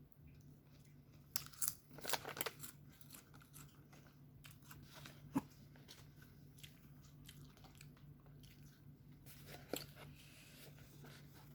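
Close-up eating sounds: a person chewing and crunching food, with a cluster of sharp crunches between about one and two and a half seconds in, another about five seconds in and one near ten seconds, over a faint steady low hum.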